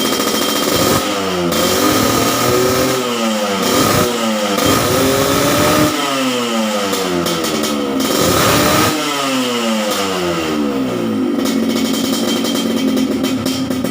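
Yamaha RX-King's two-stroke single-cylinder engine revved in about five quick throttle blips through an under-belly expansion-chamber exhaust, each rise in pitch falling back toward idle, then settling to idle near the end. The note is crisp and shrill.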